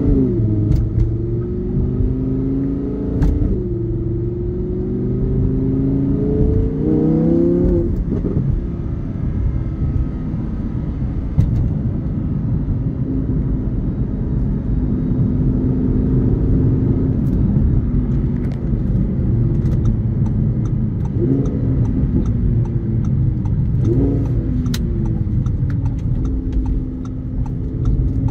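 2017 Audi R8 5.2 quattro's V10 engine and exhaust, revved twice with a rising pitch that falls away sharply, then idling steadily. Two short throttle blips come near the end.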